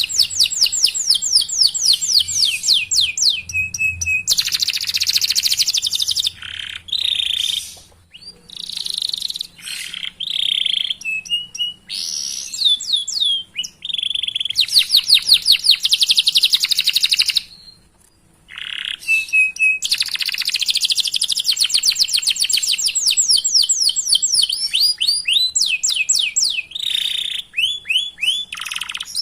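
Domestic canary singing a long song of fast rolls, runs of rapidly repeated notes each falling in pitch, mixed with short chirps, with two brief pauses about a third and two thirds of the way through.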